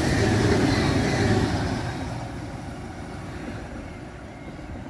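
SBB ETR 610 electric train passing through at speed, its last cars rushing by close at hand. The noise fades steadily from about a second and a half in as the train draws away.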